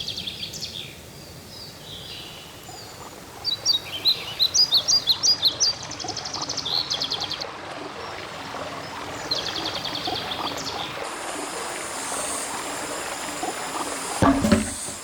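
Birds chirping in short bursts of rapid repeated high notes over steady outdoor background noise, with a steady high hiss setting in late and a single thump near the end.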